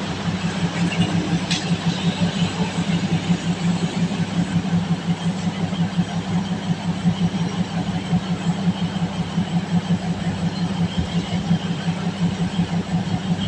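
Diesel train engine idling at a station platform: a steady, low, pulsing hum.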